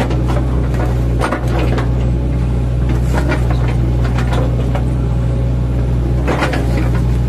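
Mini excavator's diesel engine running steadily under load, with sharp cracks and crunches a few times as its bucket chops into an oil palm trunk.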